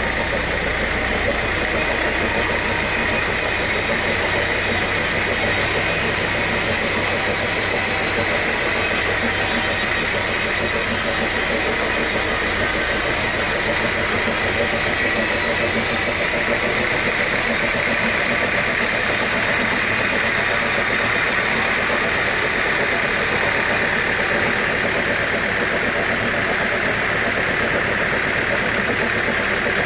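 Sawmill machinery running steadily, a continuous engine-like drone with a hiss. A low hum underneath fades out about halfway through.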